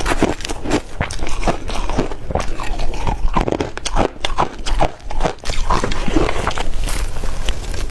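Ice being bitten and chewed close to the microphone: a dense, irregular run of crunches, several a second.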